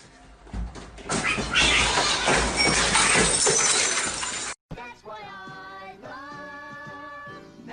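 A loud crashing, shattering clatter of things breaking that lasts about four seconds and cuts off abruptly, followed by music with long held notes.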